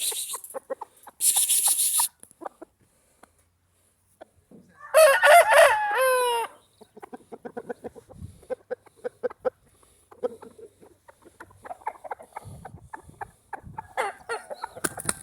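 A game cock crows once, about five seconds in, a call of about a second and a half that is the loudest sound here. Around it are soft clucks and small clicks, and there is a short burst of hiss near the start.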